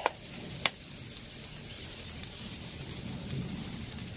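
Diced potatoes and turkey bacon frying in margarine on a Blackstone 17-inch griddle, a steady sizzle, with one sharp tick about half a second in.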